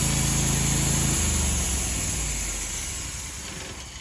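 Homemade band sawmill's small gasoline engine running steadily, then shutting off about a second in and winding down, the mill's pulleys and blade coasting to a stop as the sound fades away.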